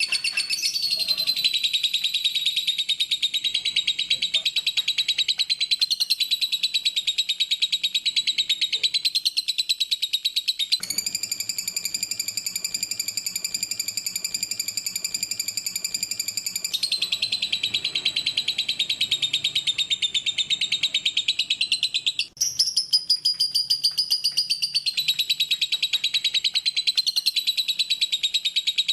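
Lovebird singing a long, unbroken rapid trill of fast repeated chirps. About eleven seconds in it changes to a steadier, more even-pitched trill for some six seconds, then returns to the chattering trill, with a brief break a little after halfway.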